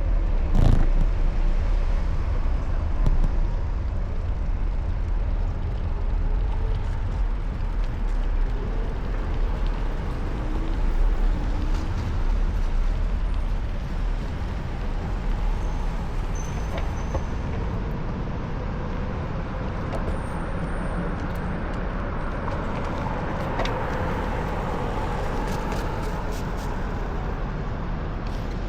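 Road traffic in a city street, with steady low wind rumble on the microphone from riding a bicycle.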